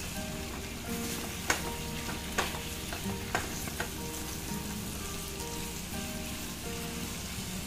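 Boiled goat tripe and intestines sizzling steadily in oil in a stainless steel pan while being stirred, the spatula knocking against the pan about four times.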